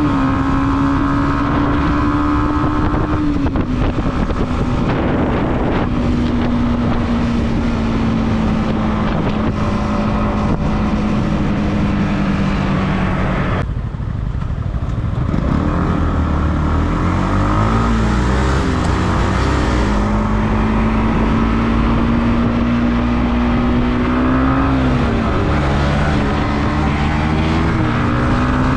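Motorcycle engine running under way, its pitch falling slowly, dropping briefly about halfway through, then climbing again as the rider works the throttle and gears.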